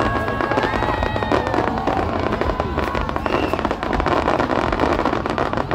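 Fireworks display: aerial shells bursting into glittering crackle effects, a dense rapid crackling of many small pops that goes on without a break.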